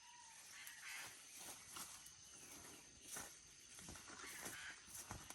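Near silence: faint scattered rustling and soft knocks over a thin, steady high tone.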